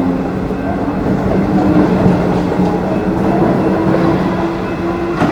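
Electric suburban train running along the line: a steady rumble of wheels on rail with a motor hum, and a tone that rises slowly in pitch through the second half.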